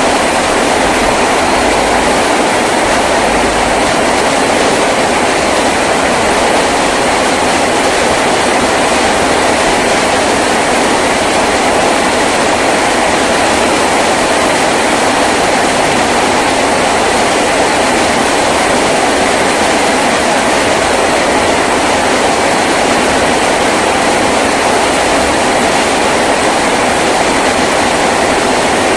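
Heavy rain drumming steadily and loudly on a tin roof, a dense unbroken patter of drops on sheet metal.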